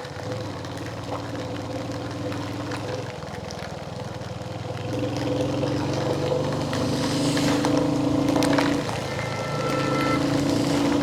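Royal Enfield Hunter 350's single-cylinder engine running while the motorcycle is ridden, its note stepping up and down with the throttle. It gets louder about halfway in and again near the end.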